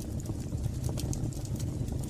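Wood fire burning in a fireplace: a low steady rumble of flames with scattered small crackles and pops of burning wood.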